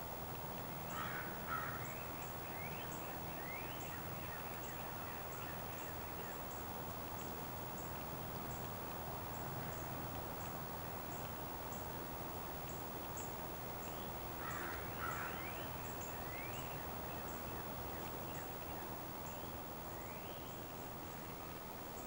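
Wild birds chirping in two short flurries of quick rising calls, about a second in and again around fifteen seconds in, over a steady outdoor hiss. A faint high tick repeats roughly twice a second.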